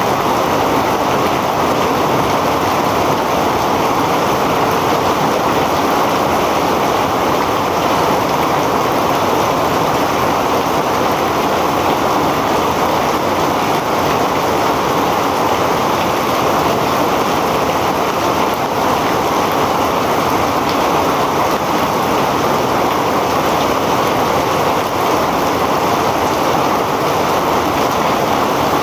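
Heavy rain falling steadily: a dense, even rush of noise that neither builds nor fades.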